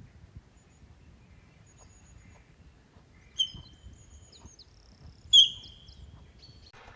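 Birds chirping, with two loud, sharp calls about two seconds apart in the middle and fainter high chirps between them.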